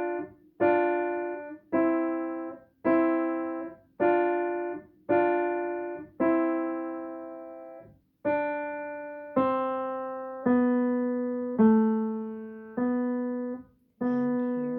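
Piano played slowly, a note or chord struck about once a second and left to ring and fade before the next, with one slightly longer held chord about halfway through.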